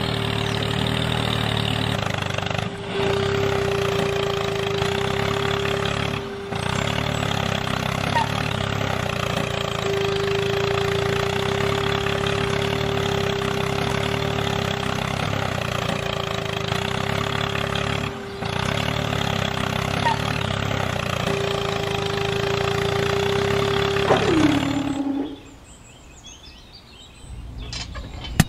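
Small electric geared motor of a homemade string winch running steadily with a constant whine and hum as it reels in the load. About 25 seconds in the whine drops in pitch and the motor stops.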